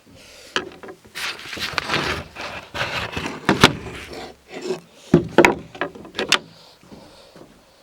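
Irregular wooden knocks, thuds and scraping of firewood being handled, with short pauses between them.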